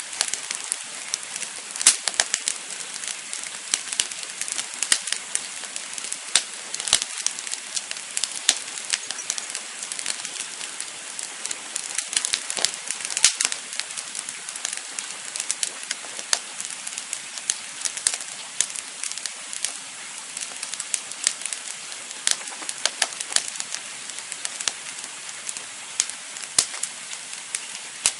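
Campfire crackling: irregular sharp pops and snaps, some much louder than others, over a steady hiss of burning.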